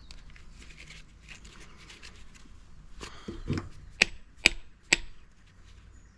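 Hand tool, likely a hammer, knocking on a washing-machine part to crack it apart: about five sharp knocks roughly half a second apart, after a few seconds of quieter handling and scraping of parts.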